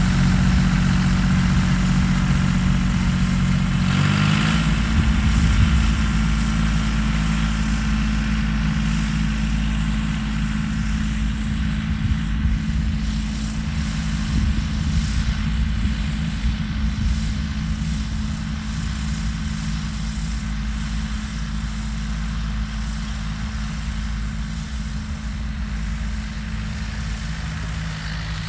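Farm tractor engine running steadily while it drives a fertilizer spreader. About four seconds in, the engine note steps up slightly as the revs rise, then holds.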